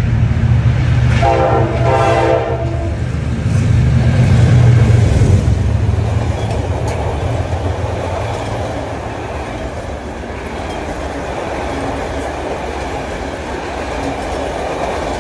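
Diesel locomotive approaching with its engine running loud and low, sounding two short horn blasts about a second in. Then its passenger coaches roll past on the rails with steady wheel-on-rail noise.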